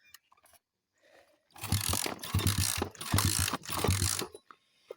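A dirt bike's kick-start lever kicked about four times in quick succession, the engine turning over briefly on each kick without starting.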